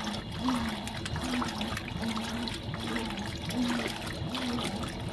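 Fisher & Paykel MW059 top-loading washing machine washing: water sloshing and trickling in the tub, with a short low motor hum repeating about twice a second as the agitator swings back and forth.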